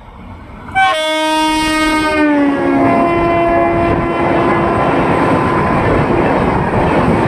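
WAP7 electric locomotive's horn sounding suddenly about a second in, a chord of several tones that drops in pitch as the locomotive passes. It then gives way to the steady rush and rumble of the passenger coaches going by at speed.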